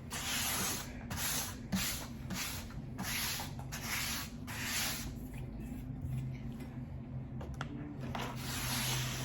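Close-miked eating of lo mein noodles: a run of short, wet, hissy mouth noises about two a second, a pause about five seconds in, then one longer one near the end.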